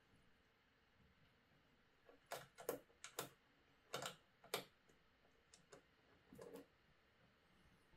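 Small hard parts being handled, clicking and clacking: a cluster of about six sharp clicks a couple of seconds in, then a few fainter ones.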